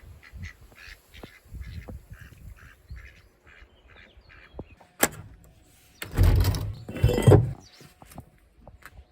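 Ducks quacking softly in a run of short, evenly repeated calls. About five seconds in there is a sharp click, followed by a loud, low rumbling noise lasting about a second and a half.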